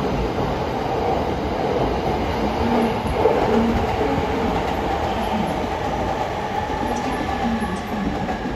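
JR E231 series electric commuter train pulling away from the platform, its wheels running steadily on the rails as it gathers speed.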